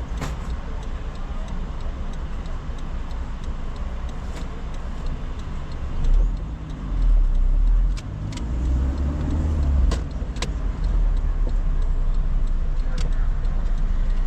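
Car driving, heard from inside the cabin: a steady engine and road rumble, with deep swells in the rumble about halfway through and a few sharp ticks.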